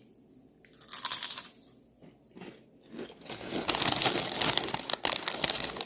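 Flamin' Hot Cheddar & Sour Cream Ruffles potato chips being bitten about a second in, then chewed with continuous crunching from about three seconds in.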